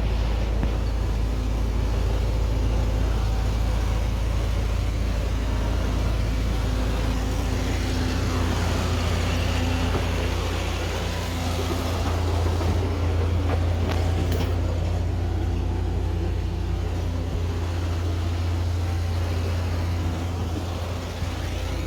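A vehicle engine running steadily at a low, even pitch, with a deep hum underneath.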